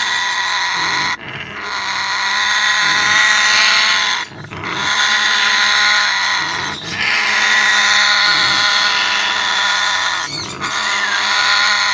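African grey parrot growling at the nest box, a long harsh rasping sound that breaks off briefly four times: a nesting parent's defensive warning at the box being opened.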